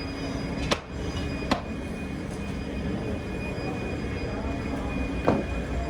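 Steady factory machine noise with a high, steady whine, broken by three sharp knocks: two about a second in, close together, and one near the end.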